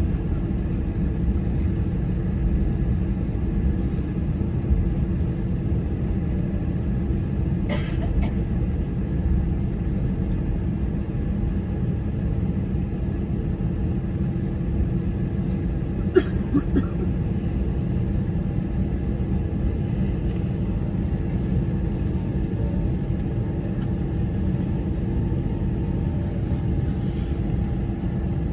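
Steady low cabin rumble with a constant hum inside an Airbus A321 on the ground after landing, with two short knocks, about 8 and 16 seconds in.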